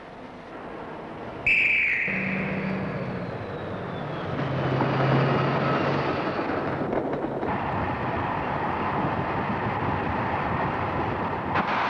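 A short shrill whistle about a second and a half in, then a train setting off from the station and gathering speed: a low engine note under a rushing noise that builds and fills out.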